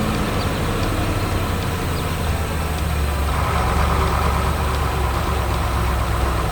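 Heavy vehicle engine running steadily, a low engine sound with hiss over it, a little louder around the middle.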